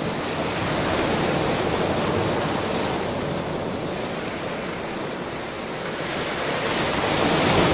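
Ocean surf washing onto a shore: a steady rushing noise that swells, eases off in the middle, and builds again near the end.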